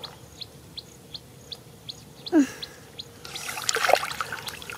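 A bird calling, one short high chirp repeated steadily about three times a second. About halfway comes a brief cry that falls in pitch, and in the last second and a half wet splashing and sloshing as hands dig in muddy water.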